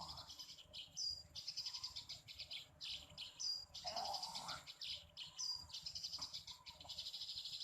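Bird calls: a short high call repeated three times, about two seconds apart, over a steady high, rapidly pulsing trill like insects or a chorus of small birds.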